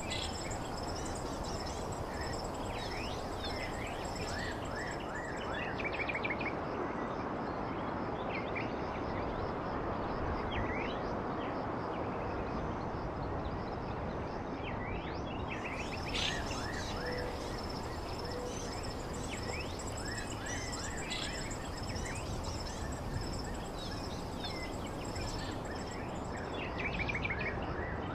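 Wild birds chirping in short, scattered calls over a steady background hiss, with a steady high-pitched insect trill running underneath.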